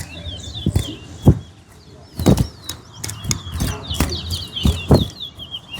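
Towa-towa finches singing in competition: short, quick chirping song phrases repeated several times, mainly in the second half. Several sharp knocks come through, the loudest sounds.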